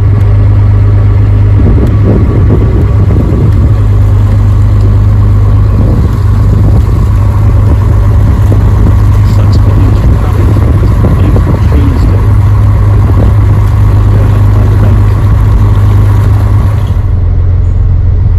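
Dutch barge's inboard engine running steadily under way, a loud, even low drone.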